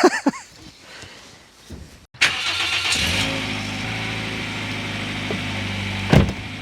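Car engine idling steadily, coming in abruptly about two seconds in, with a brief thump near the end.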